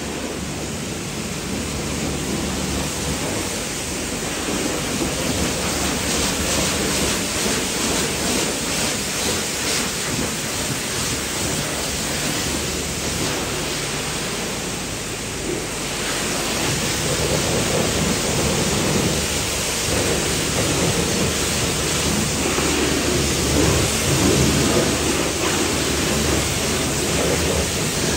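Pressure washer spraying water onto a car, a continuous hiss with a steady low hum under it that changes character about halfway through.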